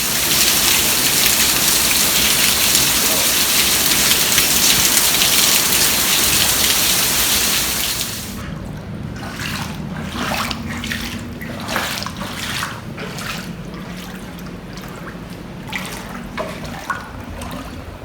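A steady rush of water for about eight seconds, then a quieter stretch with scattered short splashes and crackles.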